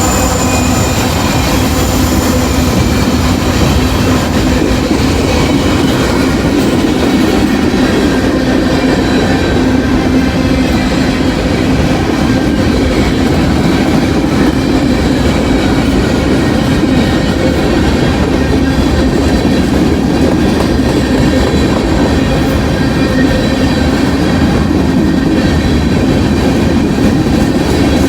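Freight train's cars rolling past in a loud, steady rumble, wheels clattering over the rail joints, with a thin high wheel squeal that fades in the first few seconds.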